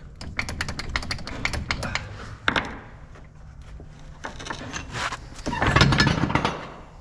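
Metal-on-metal work on a paver's track chain: a quick run of light clicks, a single sharp knock about two and a half seconds in, and a louder rattling clatter near the end.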